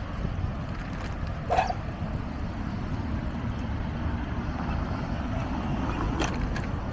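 Steady low rumble of wind and road noise on the microphone while cycling. A brief sharp sound about a second and a half in and a fainter click near the end.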